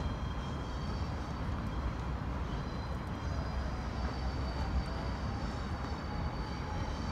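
Steady low rumble of a distant double-deck electric train running on the tracks, mixed with general city traffic noise.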